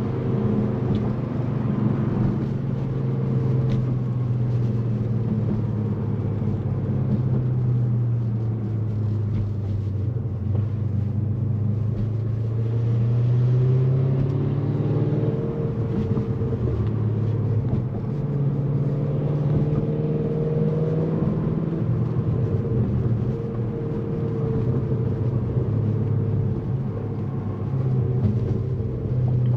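Tuned Audi S6 engine and exhaust running at low revs while driving, a steady drone whose pitch rises and falls gently with light throttle.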